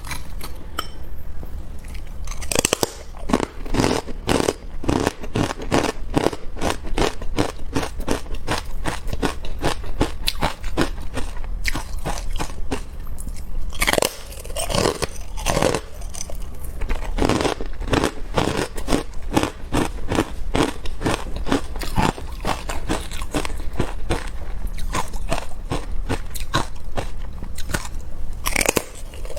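Close-up crunching and chewing of carbonated ice: a rapid, irregular run of sharp crackles and crunches, with a few louder bites standing out.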